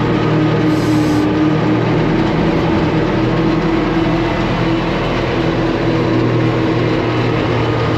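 Gasoline engine of a 1972 Allis Chalmers M65 road grader running steadily at an even speed, its choke now working so that it starts readily cold.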